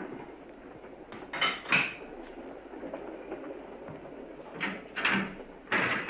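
A goods train running along the line, a low rumble broken by irregular clanks and knocks: two about a second and a half in, and a louder group near the end.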